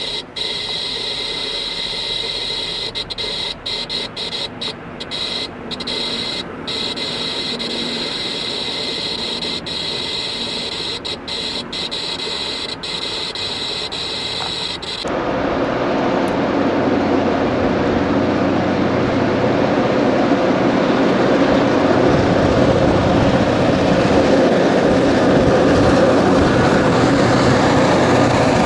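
A steady hiss with two high-pitched tones, cutting out briefly several times. About halfway through it switches abruptly to louder, growing rushing noise: an Iowa Interstate diesel freight locomotive running alongside a moving car, its engine and wheel noise mixed with the car's road and wind noise.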